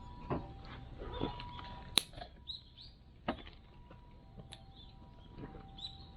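Small birds chirping, short high calls a few times, with scattered sharp clicks and knocks, the sharpest about two seconds in.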